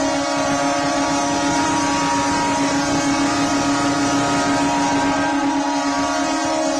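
Several train horns sounding together in one long, steady chord, the New Year's midnight horn salute of the trains in the station.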